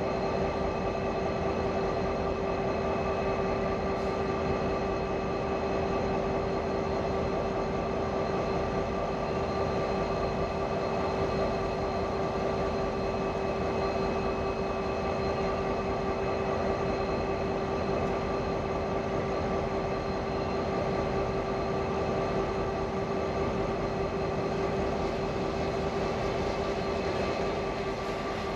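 Ore train running at steady speed: a continuous rumble with a few steady tones that keep the same pitch and level throughout.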